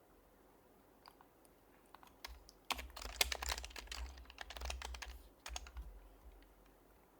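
Typing on an HHKB Professional HYBRID Type-S keyboard with silenced Topre capacitive switches: a few isolated keystrokes, then a quick run of soft key presses about two and a half seconds in that tapers off near the end.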